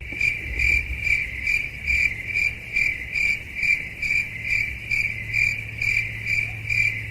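Insect chirping: one high chirp repeated evenly, a little over twice a second, over a steady low hum.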